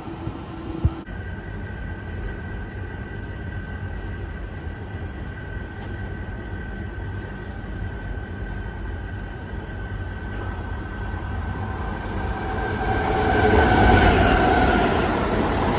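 Train in a station: steady low rumble with a thin, steady high whine, swelling louder near the end as the train draws close, after a sharp click about a second in.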